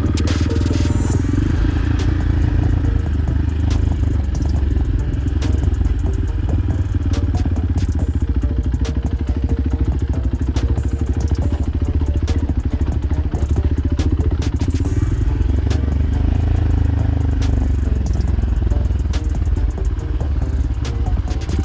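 Motorcycle engine running steadily under way, with many small clicks and rattles over it.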